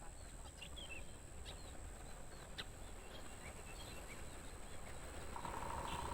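Scattered short bird chirps over the steady high-pitched trilling of crickets. A louder, lower buzz joins about five seconds in.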